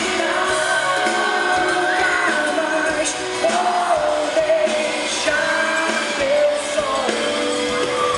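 Live pop music: a band playing with sung vocals holding long notes, loud and steady, heard from among the concert audience.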